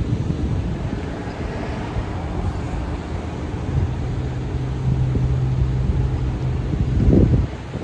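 A city bus and traffic passing on the road, a steady low engine hum through the middle, and a brief louder low rumble near the end.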